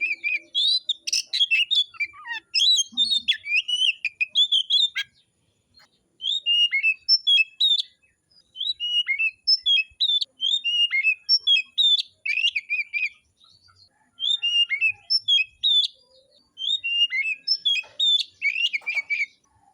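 Oriental magpie-robin singing hard, in bouts of rapid, varied whistled and chirping phrases with short pauses between them: the full, aggressive song that kicau-mania keepers call fighting form.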